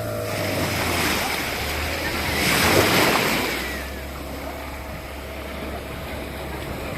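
Jet ski running steadily while water rushes and splashes past, with wind buffeting the microphone. A louder rush of spray and wind swells about two and a half seconds in and fades by about four seconds.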